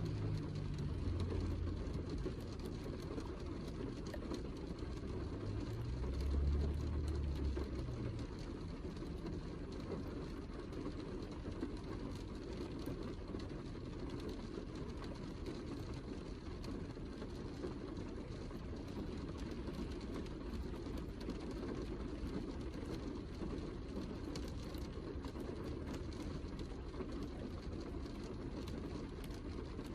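Steady heavy rain, a dense, low, even wash of noise, with two brief low rumbles swelling in the first eight seconds.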